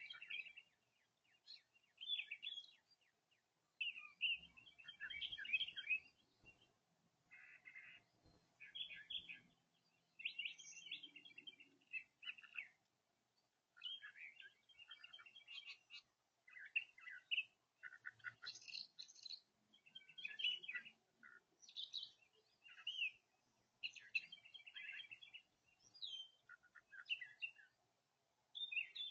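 Small songbirds chirping and singing in short, quick phrases, one after another, with brief pauses between.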